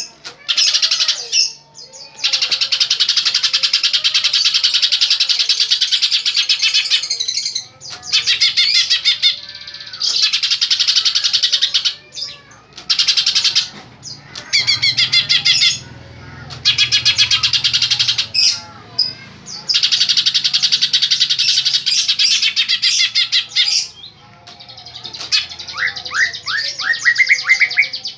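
A pet songbird singing in long bouts of rapid, high-pitched chattering song, each lasting several seconds with brief pauses between them. Near the end it switches to a quick series of rising notes.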